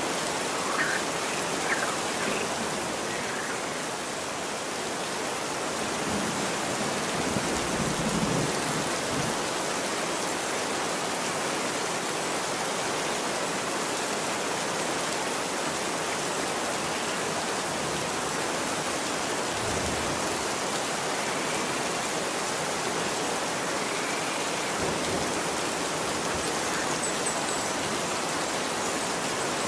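Steady rain falling on a street: an even hiss with no breaks.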